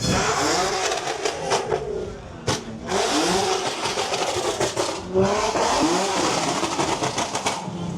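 Car engines revving up and down again and again over a dense, steady hiss.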